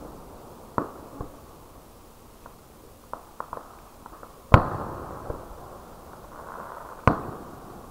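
Aerial fireworks going off: a few sharp bangs with small pops between them, the loudest about four and a half seconds in and another near the end, each trailing off in an echo.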